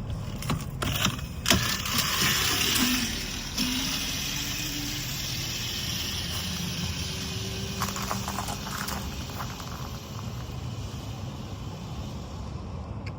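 Razor MX650 36V electric dirt bike being ridden: a steady rush of tyre and wind noise, louder in the first few seconds, with a faint electric-motor whine that slowly rises in pitch as it speeds up.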